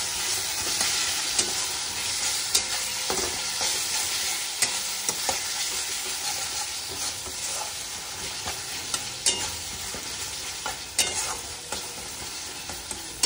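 Spice masala sizzling in a kadai while a steel spatula stirs and scrapes it around the pan, with sharp taps of the spatula on the metal now and then.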